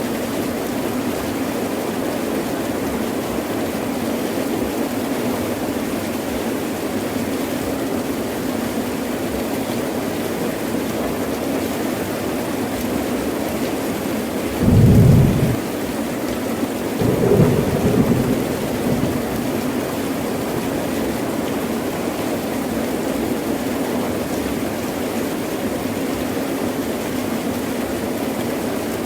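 Heavy rain pouring steadily, with thunder about halfway through: first a short, loud crack, then a longer rolling rumble a couple of seconds later.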